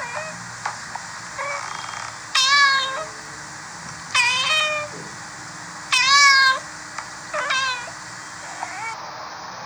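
Cats meowing repeatedly: three loud, drawn-out meows about two seconds apart, with several shorter, quieter meows between them.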